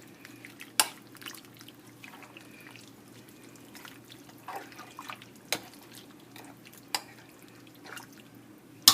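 Scattered light clicks and drips as seasoning water is worked over chicken in a crock pot, ending in a sharper clatter of a utensil against the pot.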